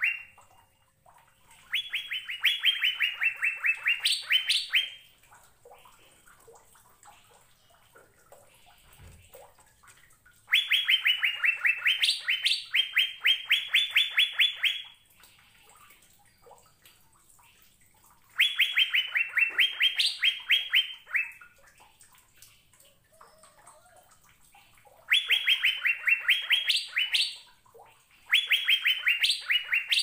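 Asian fairy-bluebird (cucak biru) singing in repeated phrases. Each phrase is a fast run of many short, evenly spaced notes lasting a few seconds, with a few higher notes flicked in near its end. Pauses of several seconds between phrases hold only faint chips.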